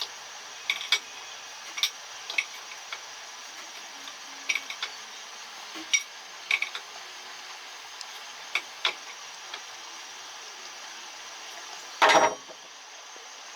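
Scattered metallic clicks and clinks of hand tools and metal parts being handled, with one louder clatter near the end, over a steady hiss.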